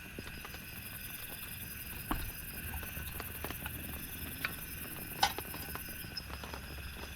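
Raindrops tapping and dripping irregularly, with two sharper drops about two and five seconds in, over a faint low rumble of rain and a steady high trilling.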